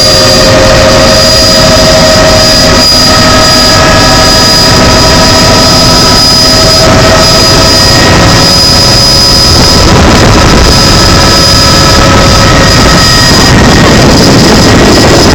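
Helicopter running in flight: a very loud, steady roar of engine and rotor with a constant high whine riding on it.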